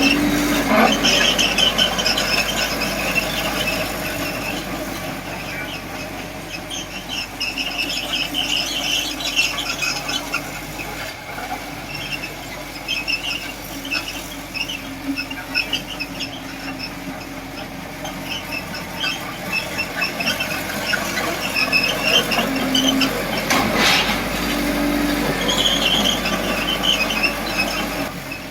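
Komatsu D20P bulldozer working, its steel tracks squealing in repeated short high-pitched bursts every second or two over the steady rumble of its engine.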